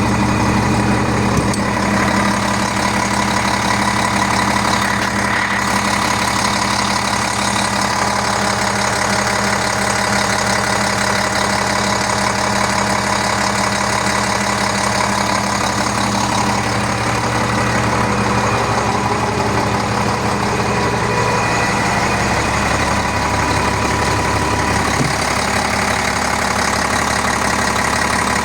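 Forklift engine idling steadily while it warms up.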